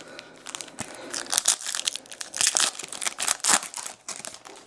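Foil wrapper of a baseball card pack crinkling and tearing as it is opened, a quick run of crackles that fades near the end.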